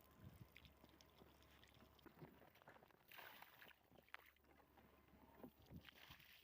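Near silence: room tone with a faint low hum and scattered faint small taps and rustles, with a brief soft rustle about three seconds in.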